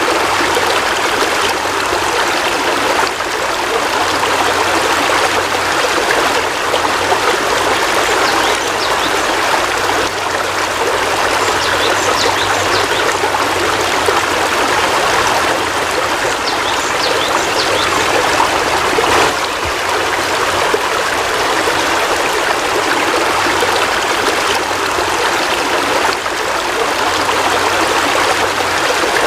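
Steady heavy rain: a constant, even rushing of water with no breaks.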